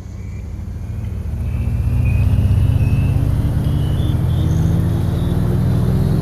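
A motor vehicle approaches and grows louder over the first two seconds, its engine note and a high whine both rising slowly in pitch as it accelerates, then stays close and loud.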